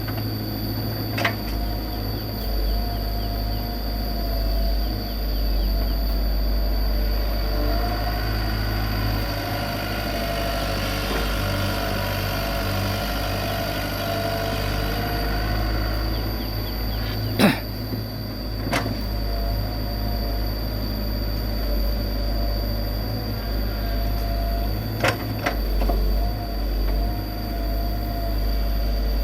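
Komatsu PC75 excavator's diesel engine running steadily, with a higher whine swelling in the middle. Five sharp metallic clanks ring out: one about a second in, two close together past the middle, and two near the end.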